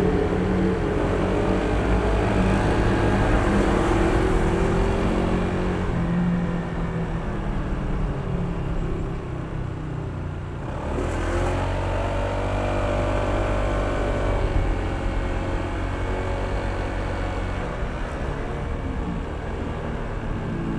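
Honda ADV160 scooter's single-cylinder engine running under way, with wind and road noise. Its note falls away about ten seconds in, then rises again as it accelerates.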